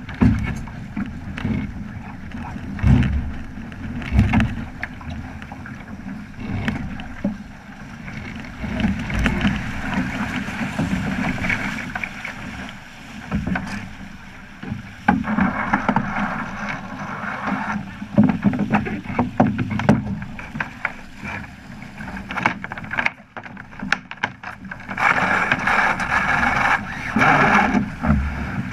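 Water rushing and splashing along the hull of a Flying Fifteen keelboat under way, in uneven surges, with wind buffeting the microphone in low thumps.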